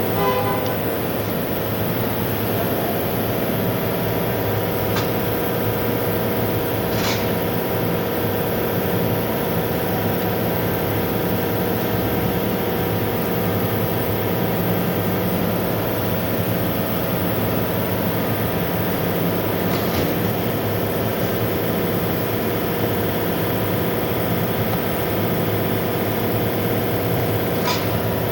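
Car running with its electric auxiliary radiator fan, a steady mechanical drone with a few light clicks.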